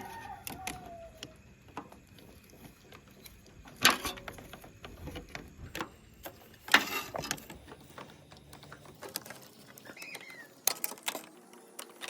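Scattered clicks and knocks of metal motorcycle parts and hand tools being handled during work on a kick-start mechanism, with two louder knocks about four and seven seconds in.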